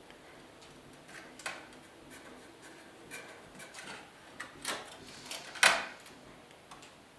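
A few light clicks and knocks from hand work on a sheet-metal motorcycle seat pan, spaced irregularly, with one sharper knock about two-thirds of the way through.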